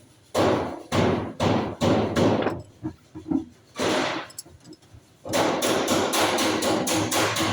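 A series of loud, sharp strikes: a handful of spaced blows, a pause, then a fast even run of about four to five blows a second starting a little after five seconds in.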